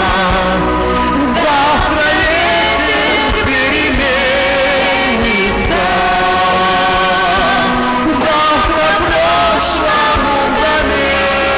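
A song: voices singing long, wavering notes over a steady instrumental accompaniment.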